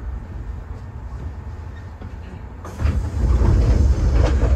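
Low rumble of a Kintetsu 6020-series electric train standing at a station platform. About three seconds in, the sound jumps louder, with a run of clattering noise over the rumble.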